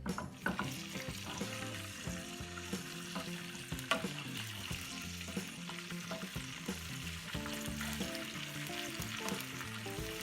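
Crushed garlic sizzling in melted butter in a pan, stirred with a spoon that clicks against the pan now and then.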